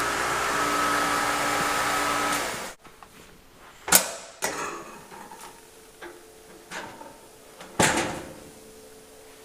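A dishwasher running with a steady hum and hiss that cuts off abruptly a little under three seconds in. Then a few sharp clacks and, near the end, a louder clunk, as its door is opened.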